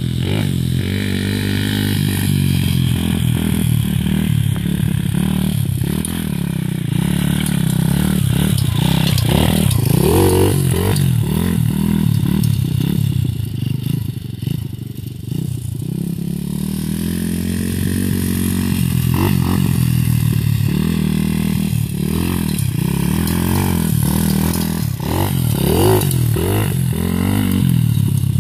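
125 cc dirt bike engine running and being revved, its pitch climbing and falling again and again throughout.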